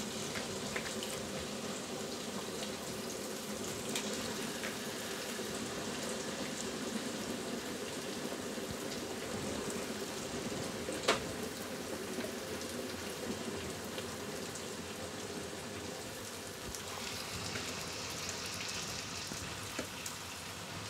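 Chicken curry masala sizzling steadily in oil as raw chicken pieces are added, a fine crackle like light rain, with a sharp click about eleven seconds in.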